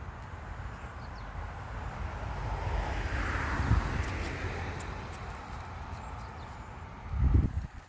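A vehicle passing by: a broad rushing noise swells to a peak about three to four seconds in and then fades, over a low rumble, with a dull thump near the end.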